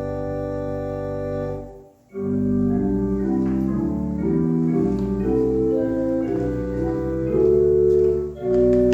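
Organ music. A held chord fades out about two seconds in, and after a short pause a new phrase begins, with moving notes over sustained chords and a brief break near the end.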